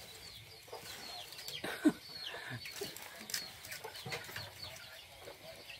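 Birds chirping: short falling chirps repeating several times a second, with a single sharp knock a little under two seconds in.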